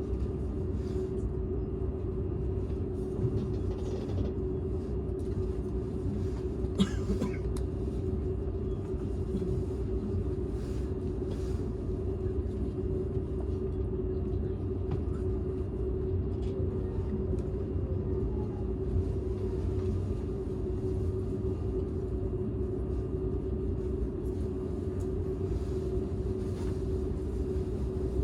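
Running noise inside a Seibu 001 series Laview limited express car: a steady low rumble of wheels on rail with a constant hum. A brief sharp noise comes about seven seconds in.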